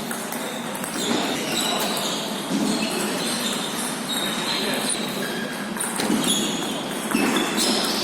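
Table tennis ball clicking against bats and the table during rallies, over a steady background of voices in a large hall.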